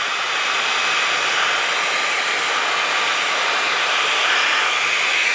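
Cordless handheld air duster and vacuum running in vacuum mode: a steady, loud rushing whoosh from its high-speed fan, with a faint thin high whine, as it sucks up debris.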